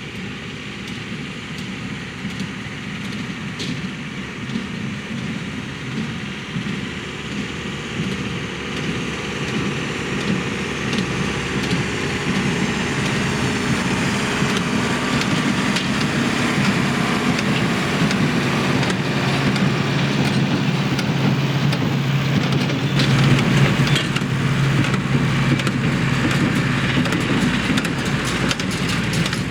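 Massey Ferguson tractor engine running steadily, growing gradually louder as it draws nearer.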